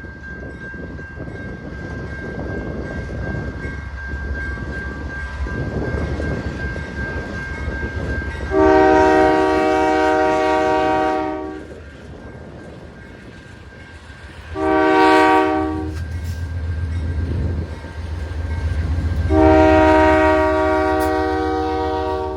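Approaching CN diesel freight locomotive rumbling closer, then blowing its multi-chime air horn in a long, a short and a long blast, the pattern of a grade-crossing signal.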